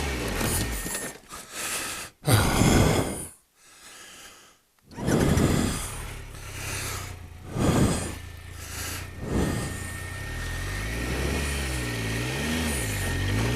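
A person breathing hard, with heavy gasping breaths a few seconds apart while walking up a steep hill track, out of breath. A low wavering hum runs underneath.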